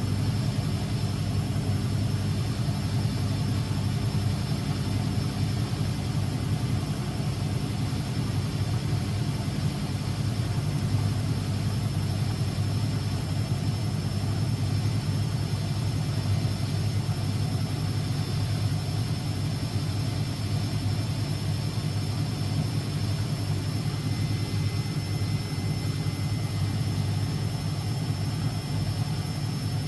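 Constructa Energy 1000s washing machine running with a steady, unchanging motor hum.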